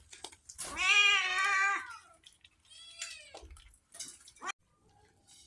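Domestic cat meowing: one long, loud meow about a second in, then a shorter meow around three seconds in.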